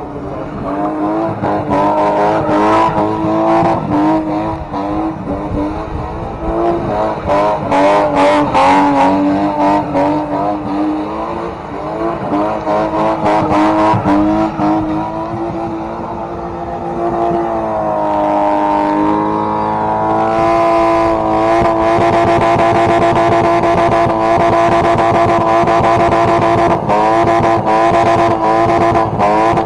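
A car engine held at high revs, its pitch wavering for the first half, dipping and climbing back up about two-thirds of the way in, then held steady and loud.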